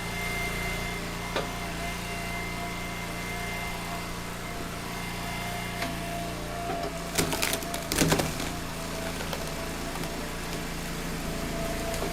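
Engine of a firewood log splitter running steadily, with a short burst of cracking wood about seven to eight seconds in as a round is split.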